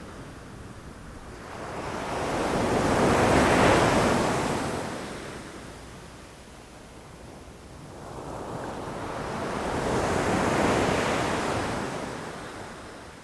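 Ocean waves breaking against rocks, two waves in turn: each surge swells up over a couple of seconds, peaks, and washes back down, the first about three and a half seconds in and the second about ten seconds in.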